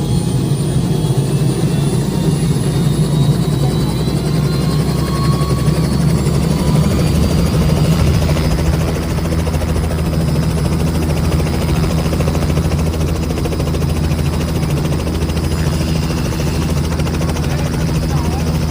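Helicopter running close by, its rotor and engine giving a loud steady drone. A high turbine whine rises slowly in pitch through the first half, and the low drone shifts slightly about halfway through.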